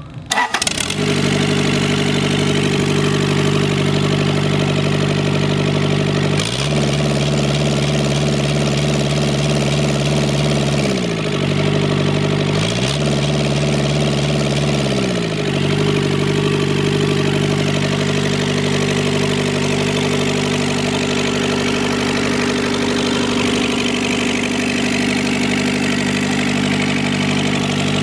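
Kubota V2203 four-cylinder indirect-injection diesel engine starting up and then running steadily. Its speed changes twice for about four seconds each, from about six and a half seconds in and again from about thirteen seconds in, gliding back to a steady run each time.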